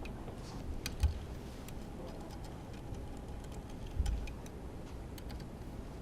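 Scattered light clicks and taps of hand tools and parts being handled while an engine is taken apart, with two dull thumps about one and four seconds in.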